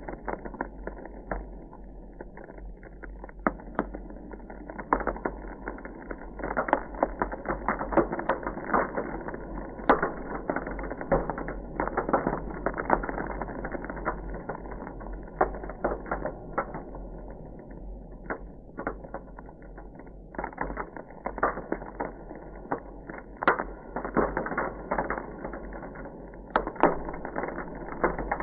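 Ice crackling: a dense, irregular stream of small cracks, ticks and pops, with sharper, louder snaps scattered through it.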